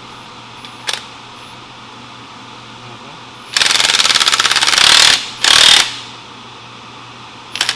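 Air impact wrench hammering on a bolt: one long rapid rattle of about a second and a half, then a short second burst.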